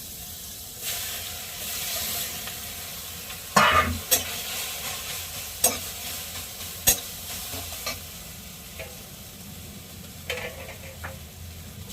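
Food sizzling in hot oil in a pan while it is stirred, a spatula knocking sharply against the pan about five times.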